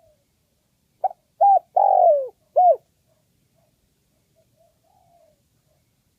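Spotted dove cooing one phrase about a second in: two short notes, a longer note that falls in pitch, then a short final note. Faint soft notes come before and after it.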